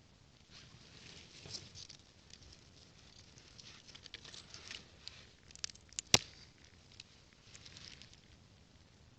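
Dry twigs and kindling crackling and rustling as a campfire is being lit, in irregular light clicks, with one sharp snap about six seconds in.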